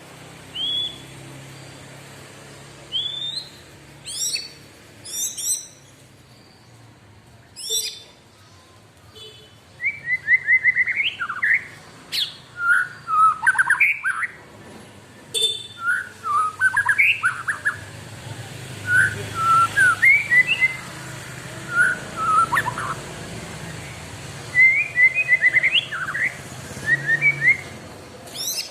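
White-rumped shama singing. A few sharp high calls and quick falling notes come in the first several seconds. From about ten seconds in it breaks into a fast, varied run of whistled phrases with only short gaps.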